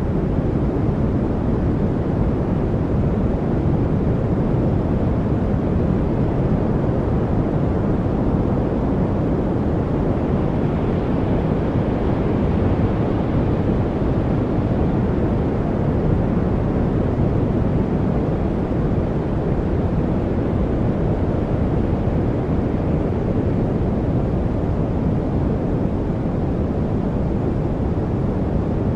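Steady, deep-toned noise: an even rush with no pitch, rhythm or separate events, weighted toward the low end with little hiss on top.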